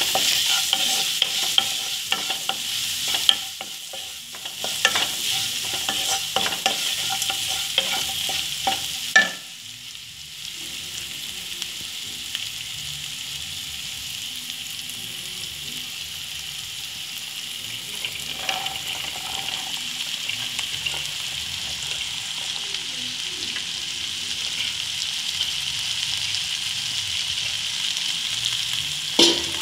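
Garlic, curry leaves and lentils sizzling in hot oil in a nonstick pan, stirred with a wooden spatula that scrapes and knocks against the pan many times in the first nine seconds. After a sharp knock about nine seconds in, the sizzle carries on quieter and steadier with only occasional stirring, and there is another knock at the very end.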